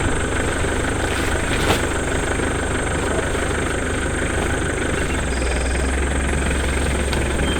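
Truck engine idling steadily, its low hum shifting slightly about five seconds in.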